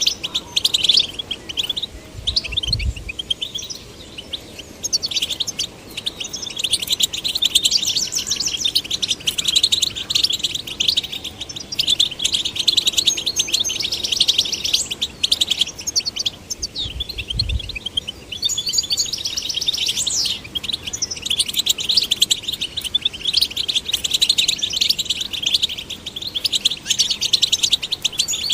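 European goldfinch singing: a continuous run of rapid, high twittering chirps and trills with barely a pause.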